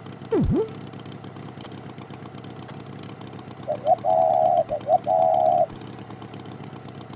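Cartoon tractor engine idling with a steady low hum. A quick downward sliding whistle comes just after the start, and a run of short pitched beeps and held tones comes in the middle.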